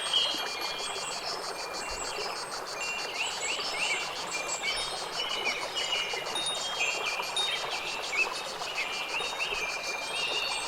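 Nature soundscape: short, high chime-like tones and chirps over a fast, even insect pulsing, with a soft hiss beneath.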